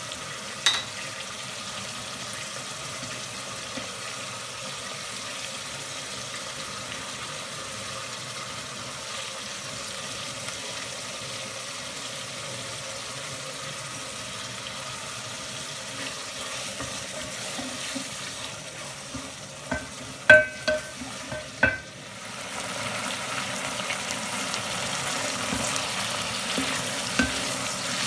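Chicken liver fried rice sizzling in a pan while it is stirred, just after oyster sauce has gone in. A few sharp clinks of the utensil against the pan come about twenty seconds in, and the sizzle grows louder after them.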